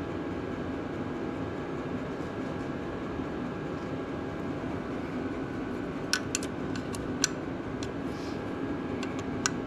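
Hand tools clinking on metal: a quick run of sharp clicks about six seconds in and a few more near the end, over a steady mechanical hum.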